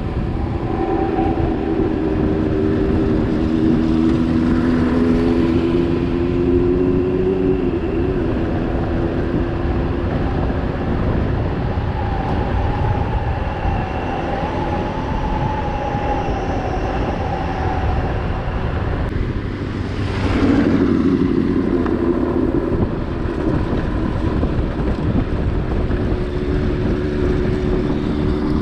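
A vehicle engine running with a steady rumble; its pitch shifts about eight seconds in and again about twenty seconds in.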